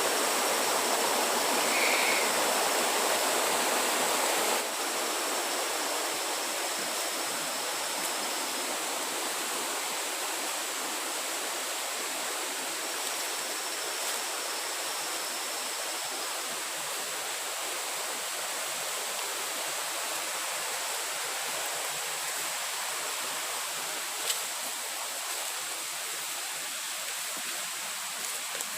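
Steady rushing noise like flowing water, with a faint high steady tone above it. The level drops a little about four and a half seconds in, and there is a single small click near the end.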